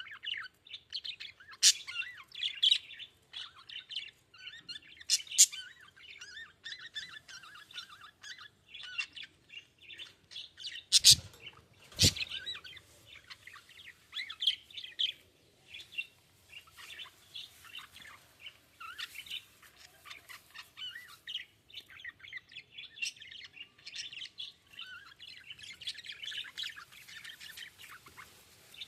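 Budgies chirping and warbling continuously, many short overlapping calls. Two sharp clicks come about a second apart near the middle.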